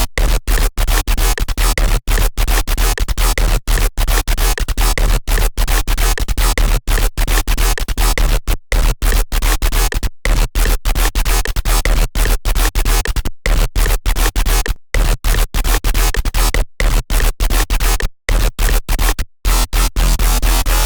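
Serum software synthesizer patch built on an image-derived wavetable, playing a harsh, noisy electronic sound in rapid stuttering stabs over a deep bass, with short gaps several times a second.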